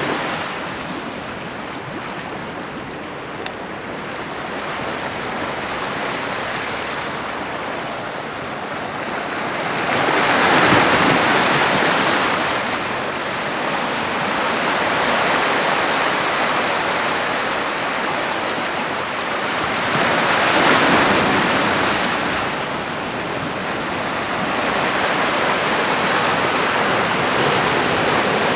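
Heavy typhoon surf breaking and washing in continuously, with the roar swelling as larger waves break about ten seconds in and again about twenty seconds in.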